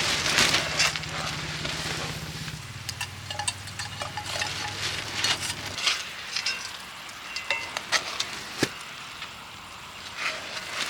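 Food sizzling and frying in a pan over a campfire, with a utensil stirring and clinking against the pan. A low steady hum runs under it and stops about halfway through.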